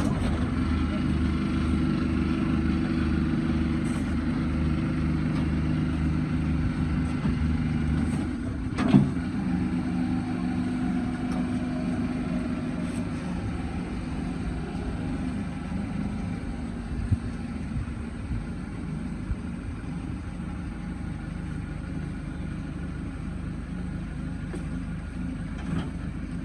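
A motor vehicle's engine running steadily, with a single clunk about nine seconds in, after which the engine note becomes quieter and lower.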